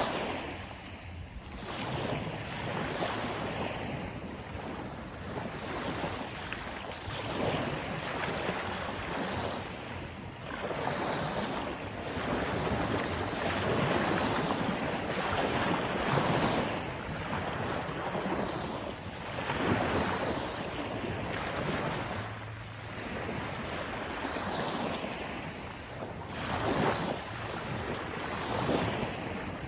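Sea waves washing in and breaking, swelling and ebbing every few seconds, with some wind on the microphone.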